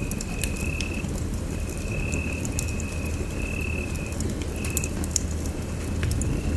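Wood fire burning in a fireplace: a steady low rumble of flames with many sharp crackles and pops. A thin high trill sounds over it in repeated stretches of under a second each, with short gaps.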